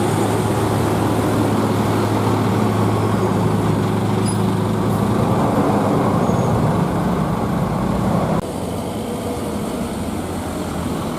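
Heavy vehicle engine running with a steady low hum over road noise. Its level drops abruptly about eight seconds in.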